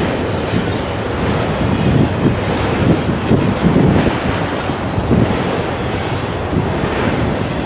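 Double-stack container well cars of a freight train rolling past close by: loud, steady noise of steel wheels on rail, with the cars clattering and rattling.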